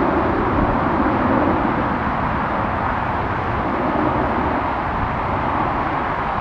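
Steady jet engine noise from an Airbus A330-300's Pratt & Whitney PW4000 turbofans at takeoff power, a continuous even rush without breaks.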